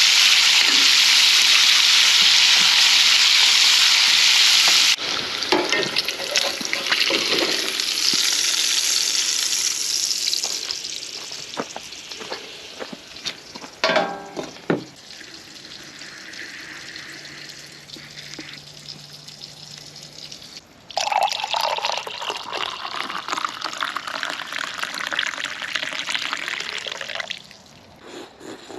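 Pancake breakfast being cooked on a camp griddle: a loud steady hiss that cuts off suddenly about five seconds in, then clatter, clicks and stirring of utensils, and a stretch of sizzling frying near the end.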